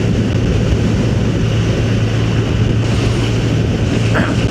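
Motorcycle engine running steadily at cruising speed, a constant low drone under the rush of wind and road noise.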